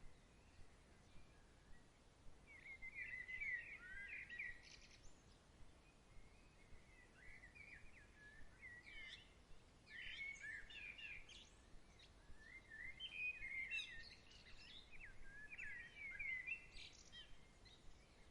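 Faint birdsong: a bird sings three spells of quick, sweeping chirps, a few seconds each, over a soft steady background hiss.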